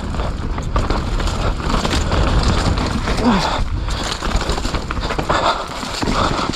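Mountain bike descending fast on a wet dirt trail: heavy wind rumble on the microphone, with tyres on the wet ground and the bike rattling in many small clicks.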